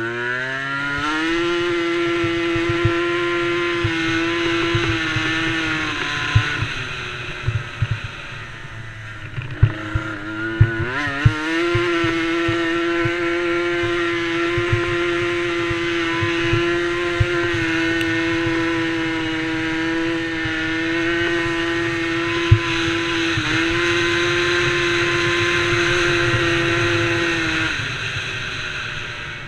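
Small DRR DRX90 youth quad engine running near flat out at a steady high pitch. It backs off about a third of the way in, revs back up, and drops away again near the end, with scattered knocks and thuds over the engine.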